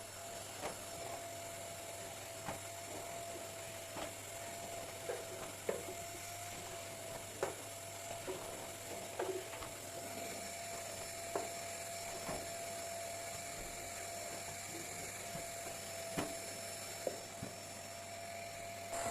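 A small electric motor running with a steady whine, with light clicks and knocks every second or so.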